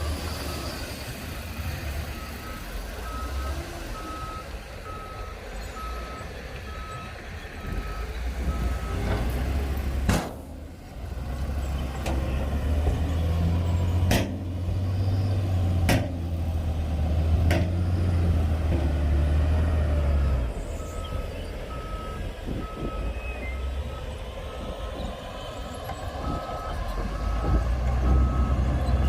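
Diesel engine of heavy earthmoving machinery running, with a reversing alarm beeping about one and a half times a second for several seconds near the start and again near the end. In the middle stretch the engine grows louder, and a few sharp clanks sound.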